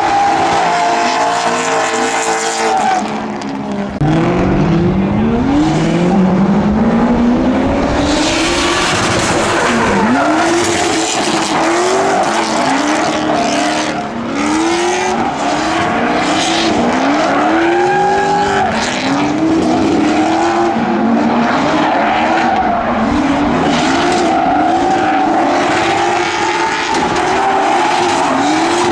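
Drift cars on track, engines revving up and falling back over and over, with tyres squealing and sliding. The sound gets suddenly louder and fuller about four seconds in.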